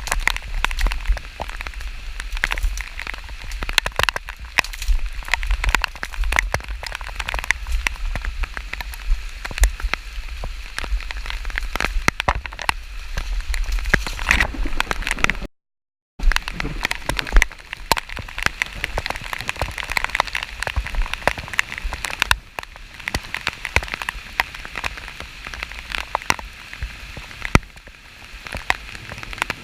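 Steady rain pattering, a dense stream of small drop ticks over a low rumble. The sound cuts out completely for under a second about halfway through.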